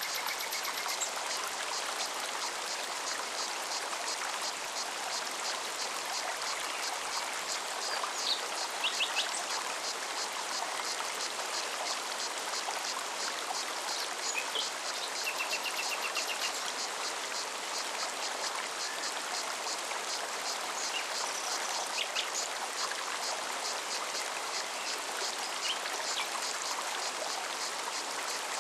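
Forest mountain stream running, a steady, even rush of water, with scattered short bird chirps and a brief high trill about halfway through.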